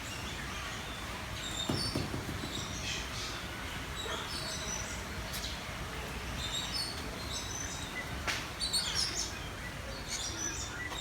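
Several birds in an aviary chirping and calling in short, repeated phrases over a steady background noise, with a brief thump about two seconds in.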